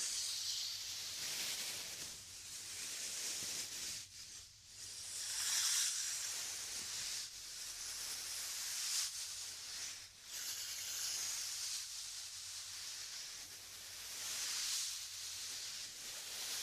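ASMR air blowing into a binaural microphone: soft breathy hissing that swells and fades every few seconds.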